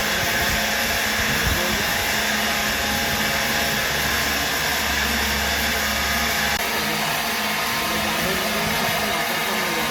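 A machine running steadily with a loud, even whirring noise; the sound shifts abruptly about two-thirds of the way through.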